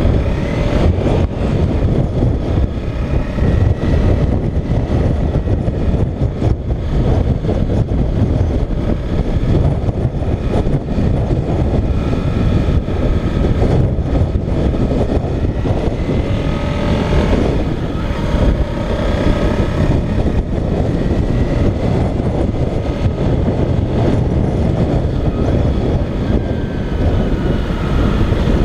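Motorcycle engine running under way, its pitch rising and falling with the revs several times, under a heavy rush of wind over the microphone.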